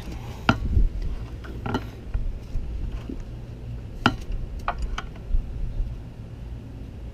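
Scattered metallic clinks and knocks of hand tools against engine parts, about half a dozen sharp hits spread irregularly over a low steady rumble.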